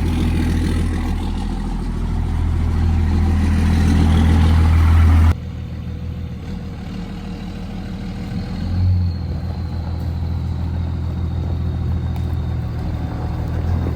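5.9 Cummins inline-six diesel running just after a cold start on new injectors. About five seconds in, the sound drops abruptly to a quieter, steady engine sound.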